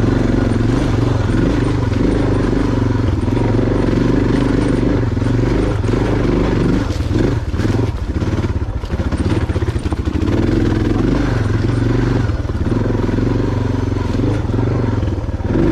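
Motorcycle engine running at low revs while riding over rough dirt trail; about seven seconds in the engine note drops off and picks back up several times with the throttle, with knocks and clatter from the bike going over bumps.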